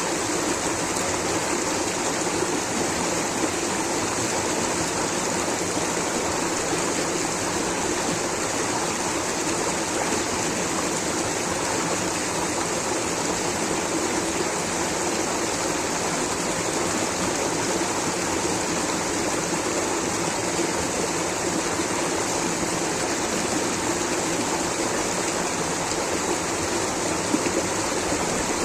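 Steady rush of flowing water, a stream or small waterfall, unchanging throughout.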